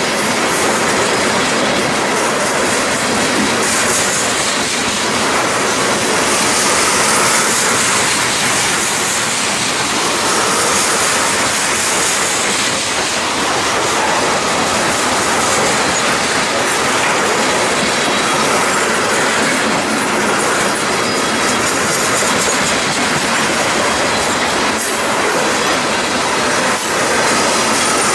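Tank cars of a freight train rolling past: a steady noise of steel wheels running on the rails.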